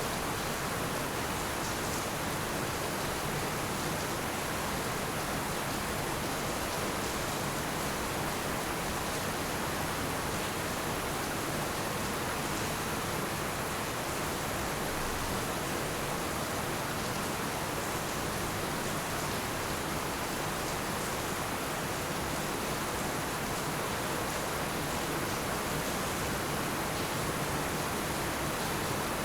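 Heavy rain falling steadily, a dense even hiss of rain on roofs and ground with no thunder.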